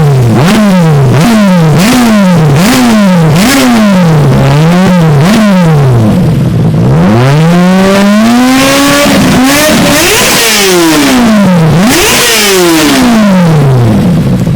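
Kawasaki Ninja ZX-6R's inline-four engine through a full Exan exhaust, blipped from idle in a run of quick revs, then held to one longer, higher rev about halfway through, with a few more blips before it drops back to idle near the end.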